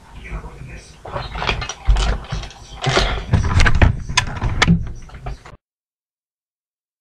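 Irregular clicks, knocks and rumbling handling noise from a laptop's built-in microphone as the computer is carried along. About five and a half seconds in, the recording cuts off to dead silence.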